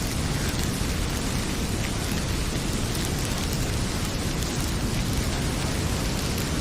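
Steady heavy rain pouring, mixed with a crackling wood fire in a fireplace giving a few faint pops.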